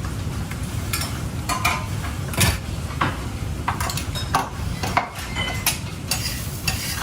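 A metal cooking utensil stirring, scraping and clinking against cookware in irregular strokes, the sharpest about two and a half seconds in, over a steady low rumble.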